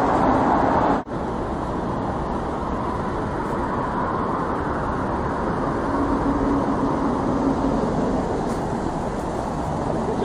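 Steady road traffic noise from passing vehicles, with a brief dropout about a second in.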